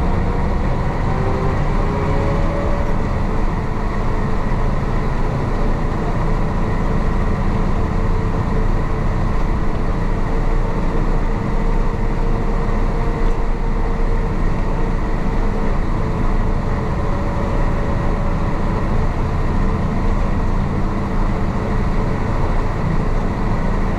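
The 1966 Isuzu BXD30 bonnet bus's DA640 diesel engine is running steadily under way with a loud growl.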